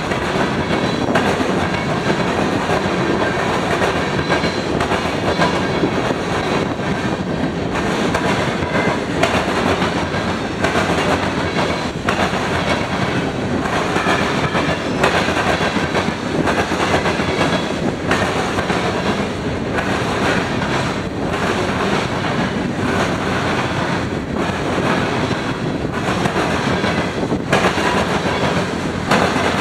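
Freight train cars rolling past, a loud steady noise of steel wheels on rail with repeated clicks as wheel sets cross rail joints, roughly one every second or so.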